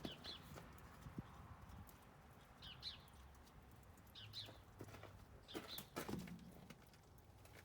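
Near silence broken by a few short, high chirps and a couple of light knocks.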